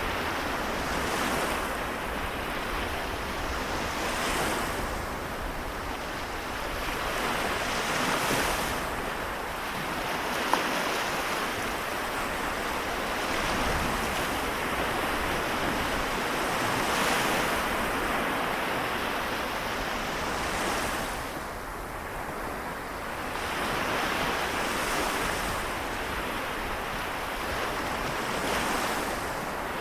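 Waves of the Seto Inland Sea washing onto the shore, the wash swelling and falling back every four seconds or so. A single faint click about ten seconds in.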